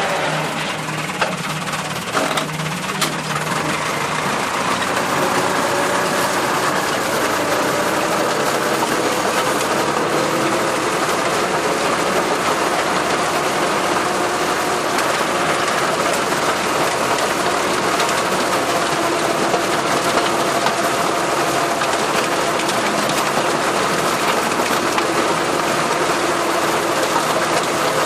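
Massey Ferguson tractor engine running steadily under load with a busy mechanical clatter, a few sharp clicks in the first few seconds.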